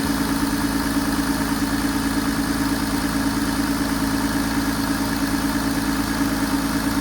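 Audi A6 C7's 3.0-litre V6 turbo-diesel engine idling steadily.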